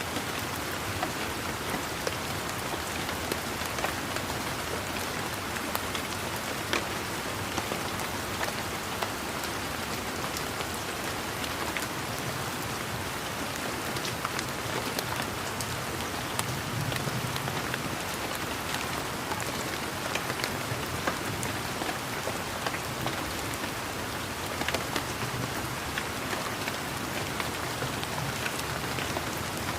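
Steady rain: an even hiss with many single drops ticking close by, the patter of raindrops on garden leaves and surfaces. A soft low rumble swells in the middle and again near the end.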